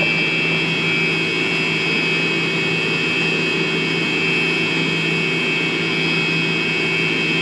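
Irrigation pump running with a steady, unchanging engine drone and a high whine.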